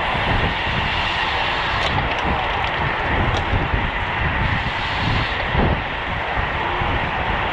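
Steady rushing wind and road noise from a racing road bicycle at speed, with a faint high steady hum and a few light ticks.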